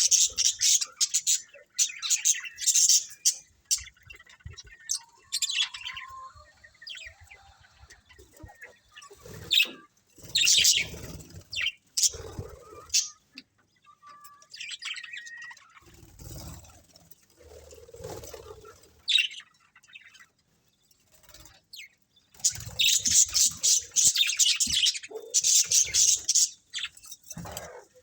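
A colony of budgerigars chirping and chattering in busy bursts, with a brief lull about two-thirds of the way through.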